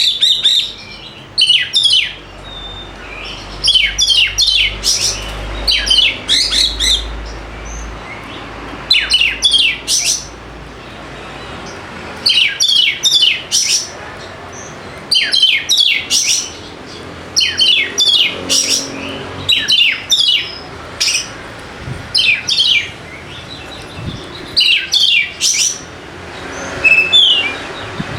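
Oriental magpie-robin (kacer) singing loudly in repeated short bursts of quick, sharp whistles and chips, a burst every second or two. It is the loud, busy full song that keepers play as a lure to set a quiet kacer singing.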